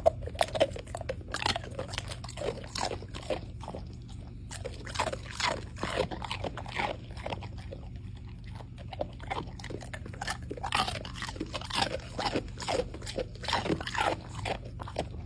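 A dog chewing and crunching something hard, with many irregular crunches over a steady low hum.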